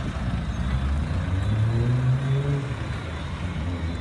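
A car engine rises in pitch under acceleration for about a second and a half, then lets off, over a steady low engine rumble.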